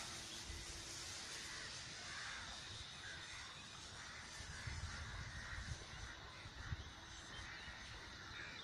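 Faint bird calls recurring every second or so over a steady hiss, with a few soft low thumps in the second half.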